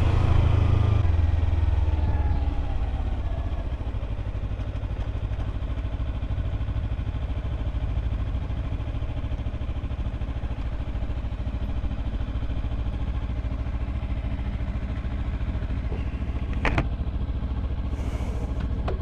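Kawasaki Ninja 300's parallel-twin engine running, its pitch falling as it eases off over the first couple of seconds, then a steady low pulsing rumble at low revs. A short sharp click near the end.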